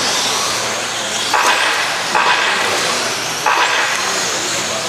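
Electric RC stadium trucks with 13.5-turn brushless motors racing: a steady mix of high motor and drivetrain whine with tyre noise, swelling in bursts as trucks pass, about a second and a half in, at two seconds and again past three seconds.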